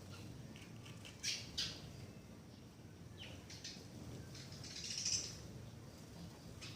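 Birds chirping in short, sharp calls: two loud chirps about a second in, a few more in the middle, and a louder run of chirps about five seconds in.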